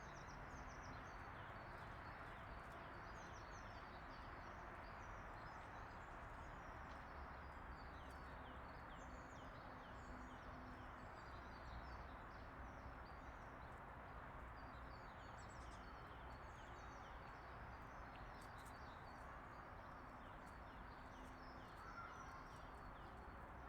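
Small songbirds chirping and twittering, many short high calls over a steady outdoor noise.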